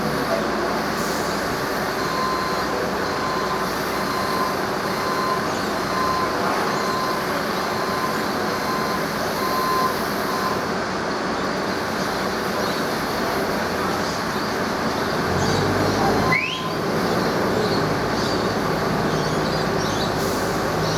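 A heavy vehicle engine runs steadily with a continuous rumble. A short beep repeats several times a second for several seconds, then stops. Near the end a low hum comes in, with a brief rising tone.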